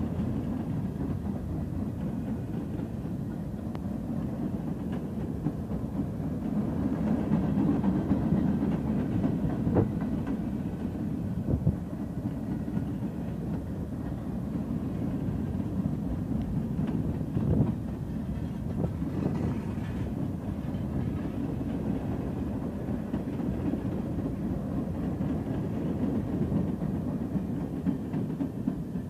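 Freight train cars rolling past on the rails: a steady rumble of steel wheels, with a few sharp clanks between the cars.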